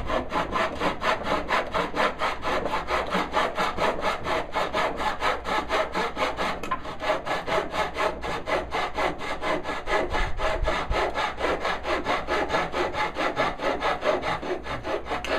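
Hand saw cutting into a walnut board along a knife wall, in fast, even back-and-forth strokes.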